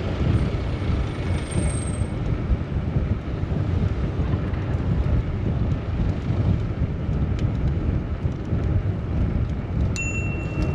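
Road-ride sound from a bicycle-mounted camera: a steady, gusting wind rumble on the microphone mixed with city traffic. A click and a short high-pitched tone come near the end.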